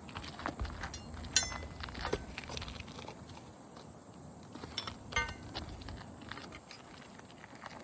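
Scattered clicks and scrapes of hand tools working on asphalt roof shingles, with two brief ringing metal clinks, one about a second in and one near the middle.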